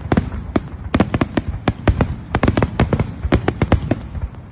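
Fireworks going off in a rapid, irregular string of sharp bangs, several a second, with a low rumble between them.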